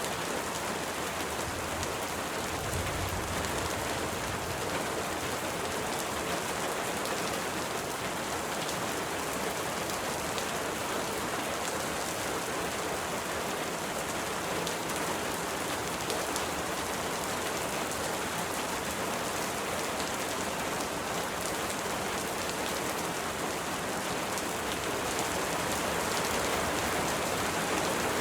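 Steady, dense rainfall, a continuous hiss of many drops with no single drops or thunder standing out, growing a little louder near the end.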